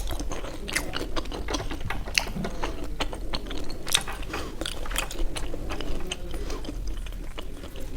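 Eating sounds close to the microphone: irregular soft clicks, several a second, from chewing momo and handling the food.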